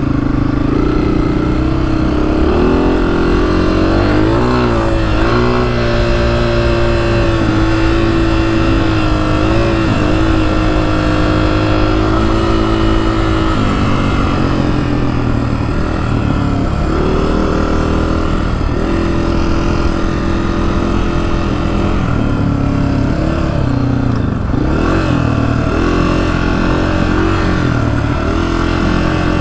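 Honda CRF250F dirt bike's single-cylinder four-stroke engine running under way on a trail, its pitch rising and falling with the throttle and shifting between gears.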